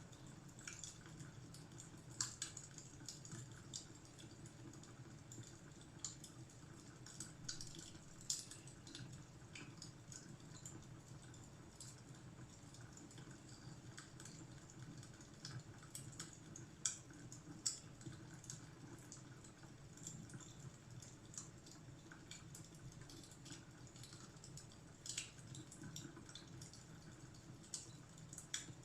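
Fireplace fire crackling faintly: irregular small snaps and pops over a steady low background.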